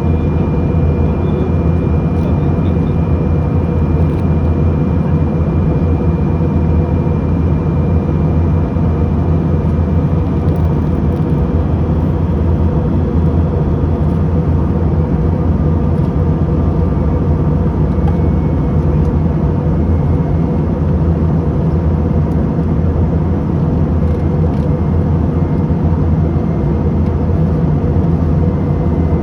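Steady cabin noise of an airliner in flight: a constant low drone of engines and rushing air, with a faint thin high tone over it that fades about twelve seconds in.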